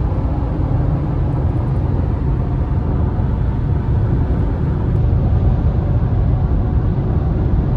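Car driving: a steady, loud low rumble of road and wind noise.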